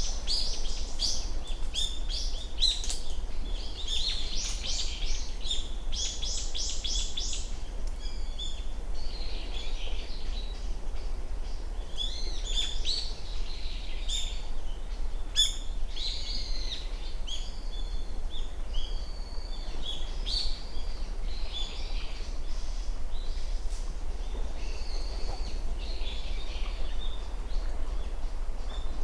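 Small songbirds calling, a busy run of short high-pitched chirps and notes, densest in the first several seconds and then more scattered, over a steady low rumble.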